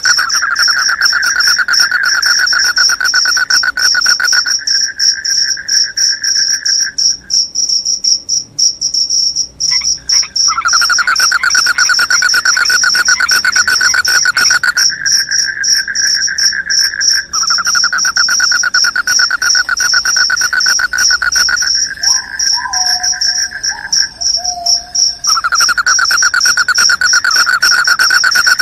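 Crickets chirping loudly in two layers: a high, continuous trill, and a lower, finely pulsed trill that stops and starts again in bouts of a few seconds. A short falling whistled note sounds faintly about three quarters of the way through.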